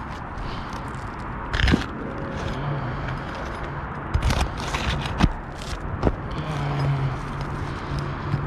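Asphalt roof shingles being worked loose by hand, scraping and crackling, with several sharp snaps as tabs and nails come free. On this old roof the lifted shingles are creasing and cracking as they are disturbed.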